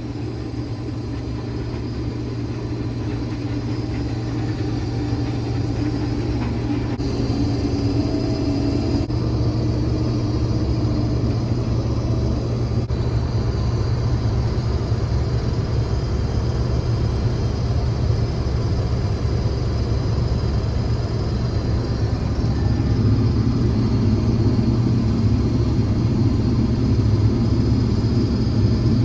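Combine harvester running as it cuts wheat, heard from inside the cab: a steady low engine drone that slowly grows louder.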